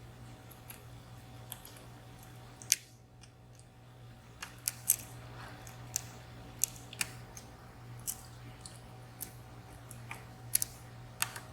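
Dimple pick working the pins inside a VSR three-row, 14-pin dimple lock under light tension: scattered small metallic clicks and ticks, about a dozen, irregularly spaced.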